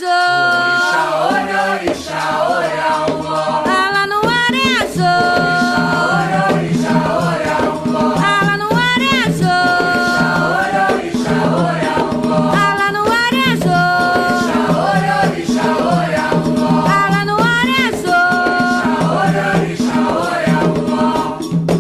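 Candomblé ritual song: voices singing a chant for the orixás over a steady, rhythmic percussion beat of drums and a rattle.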